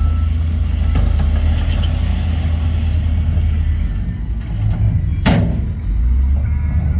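Heavy construction-machine diesel engine running with a steady low rumble, with a short sharp burst about five seconds in and another near the end.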